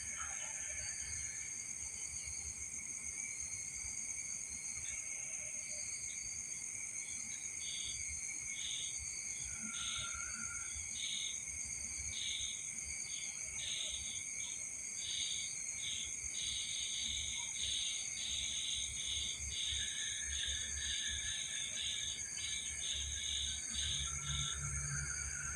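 Night insects such as crickets trilling in a steady high chorus. From about a quarter of the way in, one insect adds short repeated chirps that come faster and closer together towards the end.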